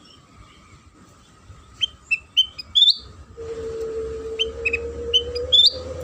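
Kutilang sutra chirping in quick clusters of short, sharp rising notes: a lure call meant to set other birds of its kind singing. A steady low hum starts about halfway through.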